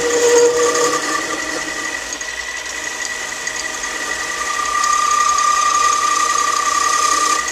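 Metal lathe running and turning a bolt blank down on a 40-thousandths cut: a steady whine with cutting hiss. It grows louder from about five seconds in and eases off just before the end.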